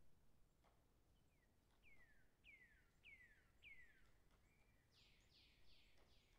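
Very faint bird calls: a run of about four descending whistled notes, then a quicker run of four broader descending notes near the end, over a few light clicks.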